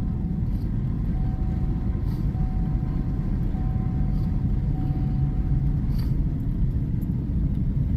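Steady low vehicle rumble, with a faint thin tone that comes and goes in the middle.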